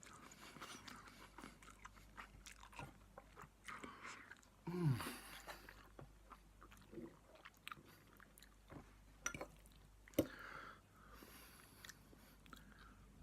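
A person chewing spicy instant ramen noodles close to the microphone: faint wet mouth clicks and breaths. About five seconds in there is a short vocal grunt that falls in pitch, and a sharp click about ten seconds in.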